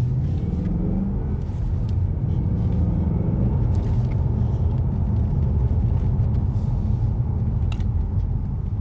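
Ford Mustang driving, heard from inside the cabin: a steady low engine and road rumble that grows a little louder in the first second as the car pulls away.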